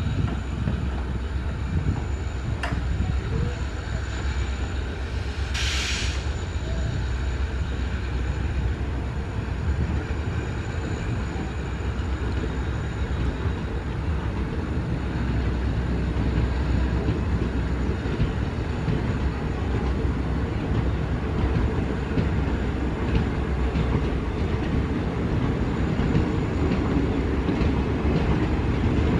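Diesel-hauled passenger train coaches rolling steadily past, a continuous rumble and clatter of wheels on the rails. A brief high hiss comes about six seconds in.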